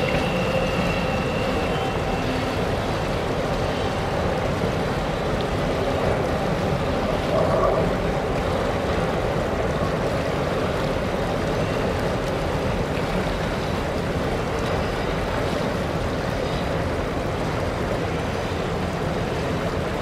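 Long freight train rolling across a steel trestle bridge, heard from a distance as a steady, even rumble of wheels on rail. A faint steady tone in the first two seconds fades as the mid-train diesel locomotive moves on.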